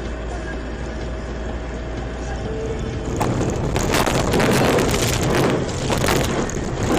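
Steady car road and engine noise, then about three seconds in a louder rough noise with scattered cracks and knocks takes over.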